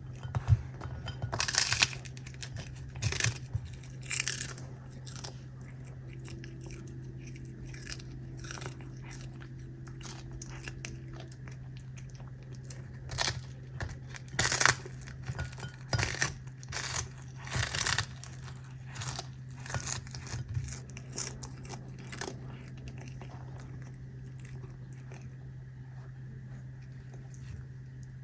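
A cat chewing capelin (shishamo): irregular crunching bites that come in clusters, with quiet pauses between. A steady low hum runs underneath.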